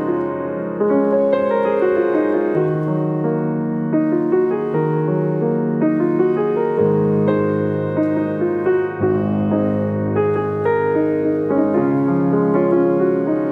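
Keyboard or piano playing slow, sustained chords with no singing: the instrumental outro of a gentle worship song.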